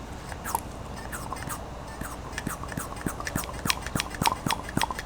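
Rapid irregular clicks and short squeaks, busier near the end, as a hand vacuum brake bleeder draws brake fluid and air out of a motorcycle's master cylinder.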